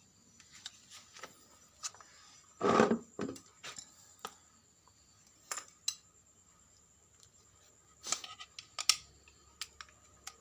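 Scattered clicks and knocks of tools and hard parts being handled at a workbench, loudest a little under three seconds in and again in a quick cluster near nine seconds, over a faint steady high whine.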